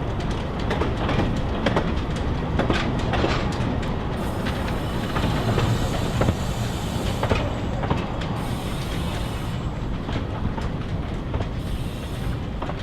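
Narrow-gauge train on the Talyllyn Railway running along the line, with a steady rumble and irregular clicks of the wheels over rail joints. A higher hiss comes and goes a few times in the middle.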